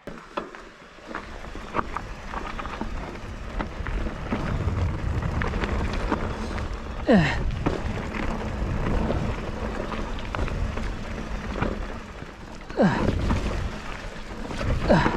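Giant Fathom hardtail mountain bike rolling fast down a dirt trail: tyres crunching over dirt and stones, the frame and chain rattling with scattered sharp clicks, and wind rumbling on the microphone.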